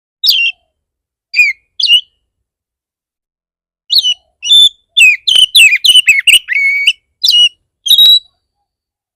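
Oriental magpie-robin singing in a fierce, agitated mood: three sharp whistled notes, then a fast run of varied whistles and chatters from about four seconds in, ending with two more clipped notes.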